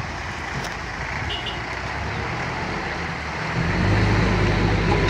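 Car and truck engines running as vehicles are driven off a boat. There is a steady rumble and a faint short double beep just over a second in, and about three and a half seconds in a nearby engine comes in louder with a steady low drone.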